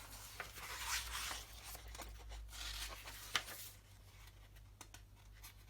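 Paper rustling as a book's pages are turned and handled, with a sharp tap about three and a half seconds in, then quieter toward the end.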